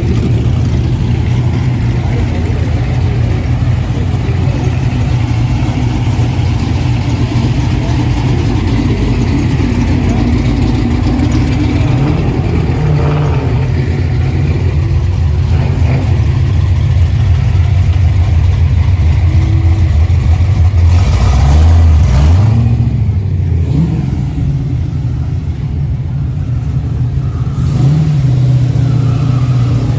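Several car engines idling together with a steady low rumble. They are blipped into short revs a few times, the loudest rev about two-thirds of the way through.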